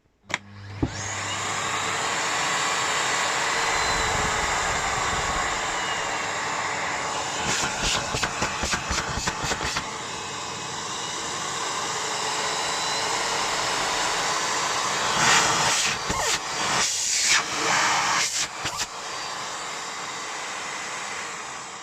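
Miele Complete C3 Cat and Dog canister vacuum cleaner switched on and running with a steady rushing of motor and suction. It is interrupted by bursts of rapid fluttering knocks about a third of the way through and again toward the end, and it runs a little quieter over the last couple of seconds.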